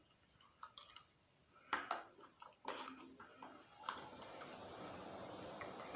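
Faint eating sounds: a few short scattered clicks and smacks of chewing and a spoon, over a faint steady hiss in the second half.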